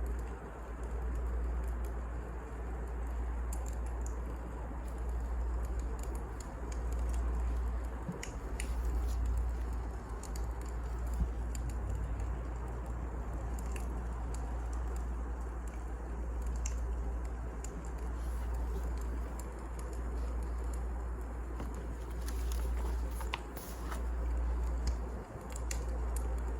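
Firewood burning in a fireplace: scattered sharp crackles and pops over a steady low rumble.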